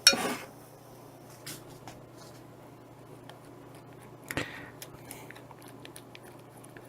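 Thick cream-of-mushroom and onion-soup mixture being poured over a pot roast: faint wet squelching with scattered small clicks and taps, one a little louder about four seconds in.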